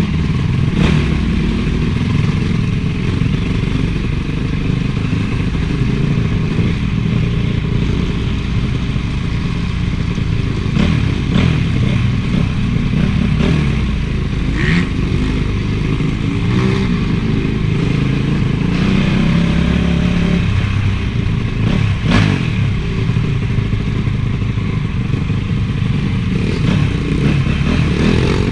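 Honda CRF450 single-cylinder four-stroke motocross engine running under riding, its pitch rising and falling as the throttle is worked, with a few sharp knocks and clatter along the way.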